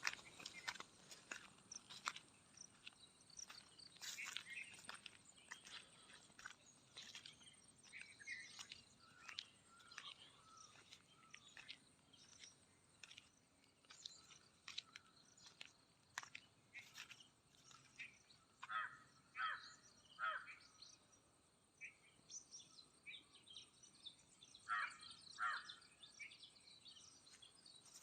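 Faint outdoor ambience with scattered bird chirps, a few quick runs of calls about two-thirds of the way in and near the end, over many soft clicks and taps.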